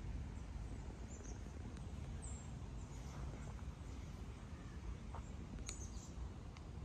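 Park ambience: a steady low rumble, with a few faint, brief high bird chirps, one about a second in and another near the end.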